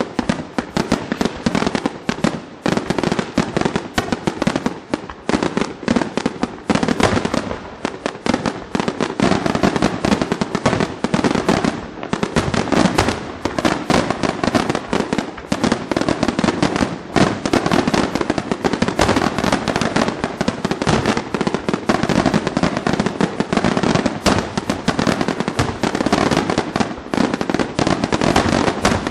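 Aerial firework shells bursting in a rapid, unbroken volley: many sharp bangs a second, overlapping with crackling.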